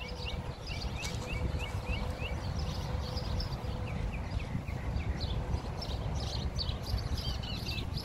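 Small birds chirping: a quick run of short, falling chirps in the first few seconds, then scattered higher chirps, over a low rumble of wind on the microphone.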